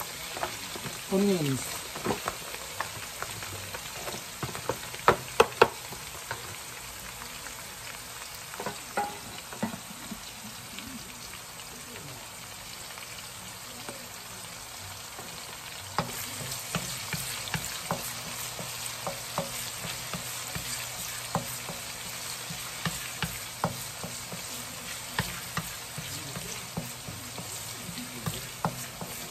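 Chopped onions and garlic sizzling in hot oil in a nonstick wok, with a wooden spatula stirring and scraping the pan. There are a few sharp knocks about five seconds in, and the sizzle grows louder from about sixteen seconds on.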